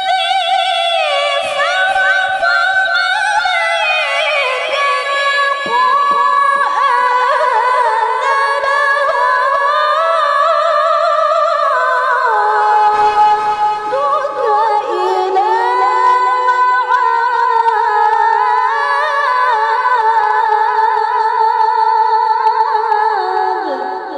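A woman reciting the Quran in melodic tilawah style, in a high, clear voice: one long ornamented phrase that wavers and glides between held notes, fading away near the end.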